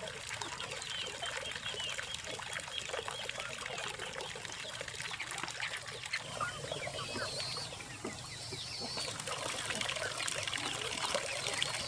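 Water trickling and splashing steadily, with birds chirping in the background and a little louder near the end.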